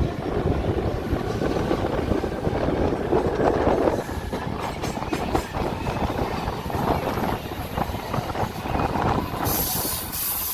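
Mumbai local electric train running between stations, heard from inside the coach: a steady rumble and rattle of the carriage on the rails. A high hiss comes in near the end.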